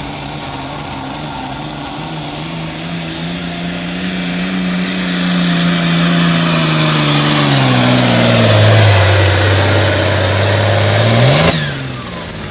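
Diesel engine of a Limited Pro Stock pulling tractor, run wide open under load. Its pitch sags steadily lower as the sled bogs it down, and the sound grows louder. About eleven and a half seconds in, the throttle is let off and the engine sound drops away sharply.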